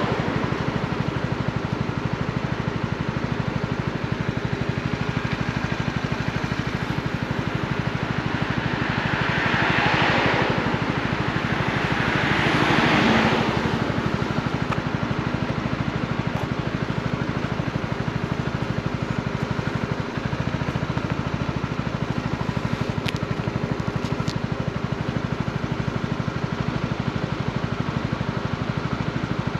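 Honda CB125R's single-cylinder 125 cc four-stroke engine running while the motorcycle is ridden. The sound swells briefly twice, about ten and thirteen seconds in.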